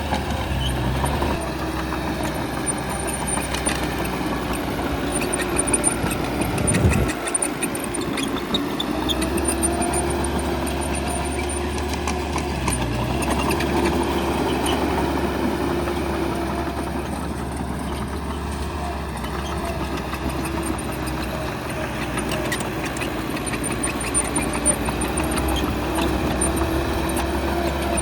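Bulldozer's diesel engine running under load, its pitch rising and falling as it works, with scattered knocks from the machine. A louder surge comes about seven seconds in.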